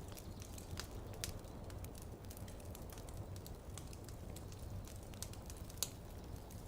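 Wood fire crackling in a fireplace: irregular sharp snaps and pops over a low steady rumble, with one louder pop near the end.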